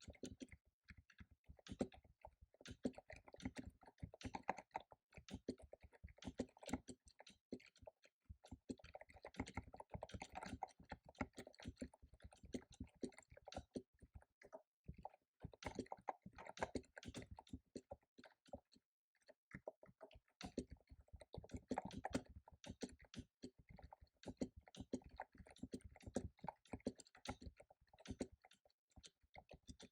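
Fast typing on a computer keyboard: long runs of rapid key clicks broken by a few brief pauses.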